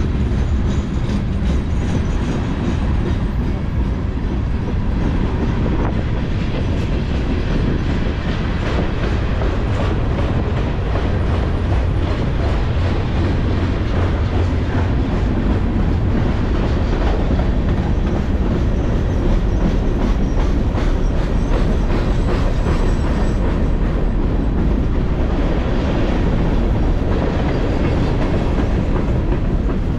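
Freight cars of a long mixed freight train rolling past at trackside: a steady loud rumble of steel wheels on the rails, with frequent clicking as the wheels pass over the rail joints.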